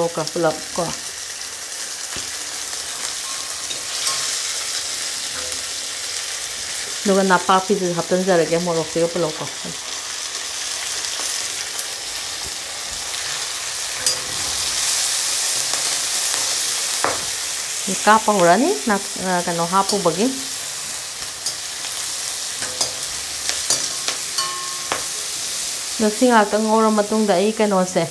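Dried fish, chillies and chives sizzling in hot mustard oil in a wok while a metal slotted spatula stirs them, with scattered scraping clicks. Three times a short wavering pitched sound rises over the sizzle.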